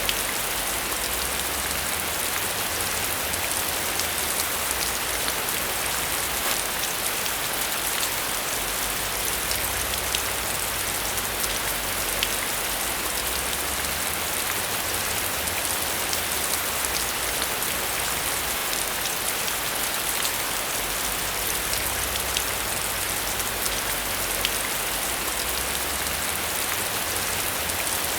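Steady rain falling on a surface: an even hiss dotted with many small, sharp drop ticks, unchanging throughout.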